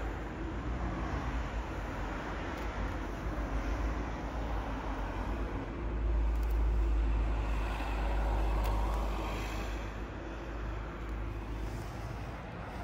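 1956 Ford F100 panel truck with a 327 V8 driving, a steady low engine rumble with road noise that swells louder for a few seconds in the middle and then eases.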